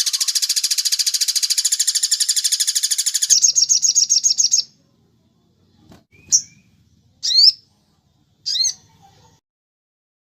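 Recorded songbird song: a loud, very fast trill of repeated high notes that changes pattern and stops about four and a half seconds in, followed by three short, separate chirps about a second apart.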